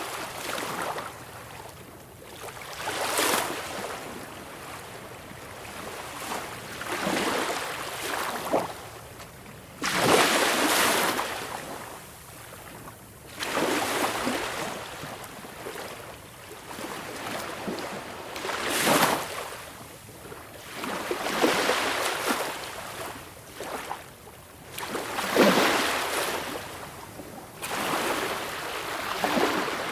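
Sea waves breaking on a beach, each wave a rushing surge every few seconds over a steady wash of surf.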